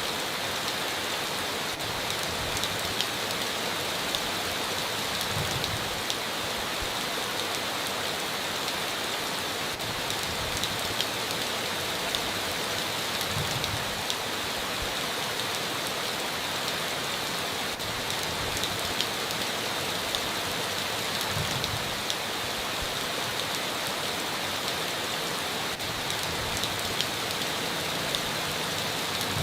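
Steady heavy rain on a tin roof, with many individual drops ticking through the continuous hiss.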